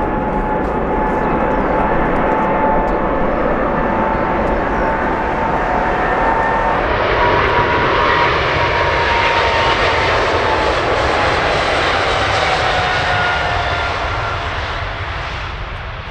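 Jet aircraft passing close by, its engines giving a loud steady rush with a whining tone. The whine rises slightly and then falls in pitch as the aircraft goes past, and the sound fades near the end.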